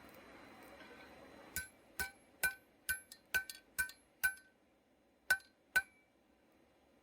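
Hammer blows on an anvil-shaped object: seven quick strikes about two a second, a short pause, then two more. Each blow gives a brief metallic ring.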